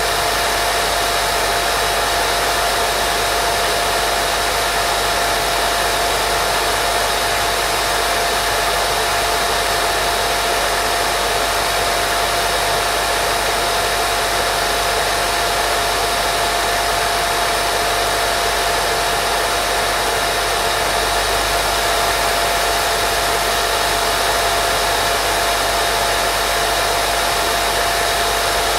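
Steady white noise for baby sleep: a constant, unchanging hiss with a thin steady whine running through it, like a hair dryer or fan.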